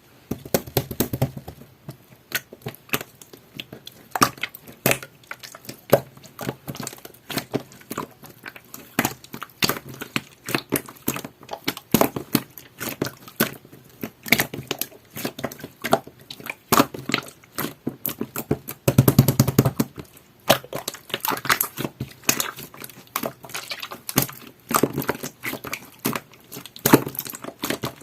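Clear, jelly-textured slime being squeezed and poked by hand, giving an irregular run of sharp sticky clicks and pops, thickest a little past two-thirds through.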